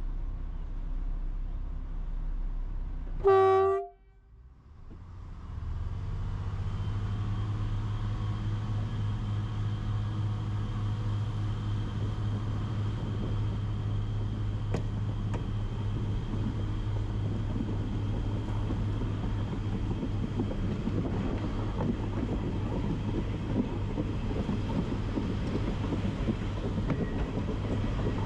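A train horn gives one short blast about three seconds in and cuts off sharply. After a brief gap, a train's steady low engine drone sets in, and a rolling rumble grows louder toward the end.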